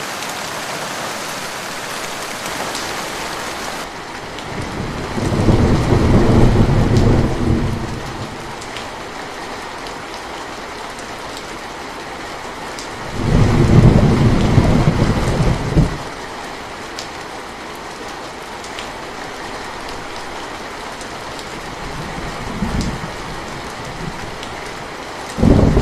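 Steady rain falling, with thunder rumbling low and loud twice, about five and thirteen seconds in, each lasting two to three seconds. A brief fainter rumble comes later, and another starts right at the end.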